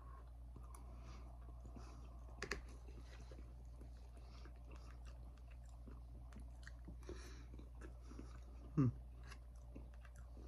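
Close-up chewing of a mouthful of corn kernels, faint and wet, with small mouth clicks. One sharp tap comes about two and a half seconds in, and a brief falling sound a little before the end.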